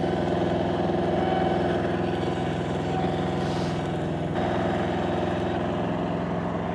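Engine of a mobile tow-behind welder-generator running steadily, its tone shifting slightly about four seconds in.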